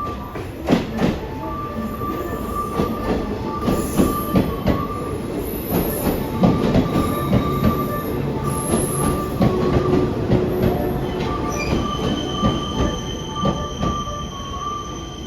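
Train running past, its wheels knocking and clattering over rail joints, with a thin high wheel squeal setting in near the end.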